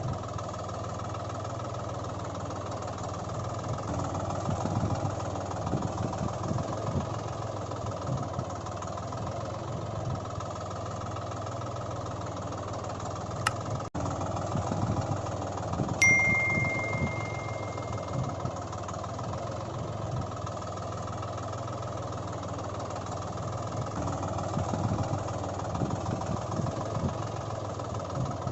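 A steady engine-like running hum. About halfway through there is a click and a brief cut, followed by a clear ringing tone lasting a couple of seconds.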